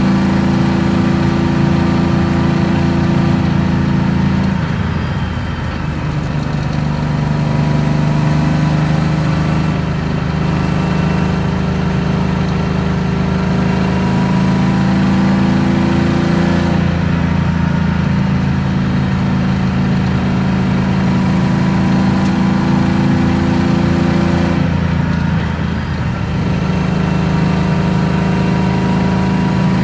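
BMW M50B25 2.5-litre straight-six in an E36 325i with aftermarket headers and exhaust, heard from inside the cabin while driving at steady, light-to-moderate load. The engine note shifts in pitch several times, with two brief dips in loudness.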